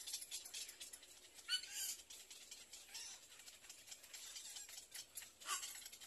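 Faint short bird calls: a squeaky call about a second and a half in and a falling call near the end, over a soft crackling rustle.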